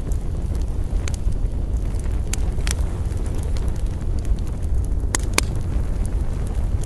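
Wood campfire crackling: a few sharp pops and snaps, two close together about five seconds in, over a steady low rumble.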